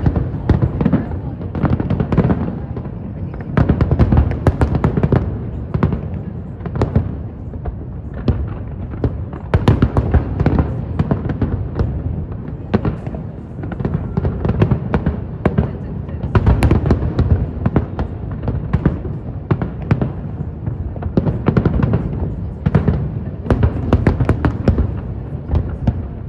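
Fireworks going off in a continuous barrage: many sharp bangs in quick succession over a steady low rumble.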